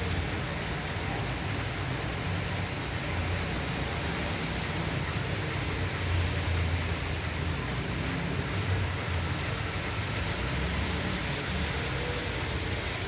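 Heavy downpour: a steady hiss of rain pouring and hitting surfaces, with an uneven low rumble underneath that comes and goes.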